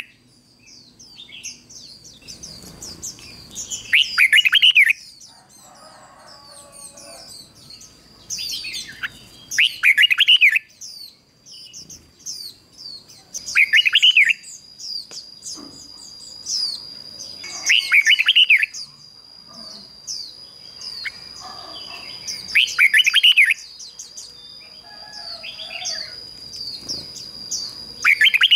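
Red-whiskered bulbul singing loud, short phrases about every four to five seconds, the song of a decoy bird meant to draw wild bulbuls in. Many faint, high chirps come between the phrases, and a steady high-pitched tone runs through the second half.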